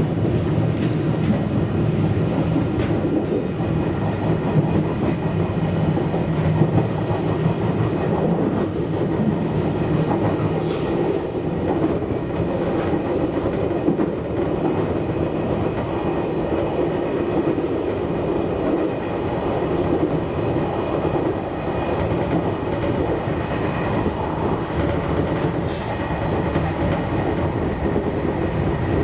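A JR Kyushu 813 series electric train running along the line, heard from inside the front car: a steady rumble of wheels on rail with scattered clicks over the rail joints and a faint steady high tone.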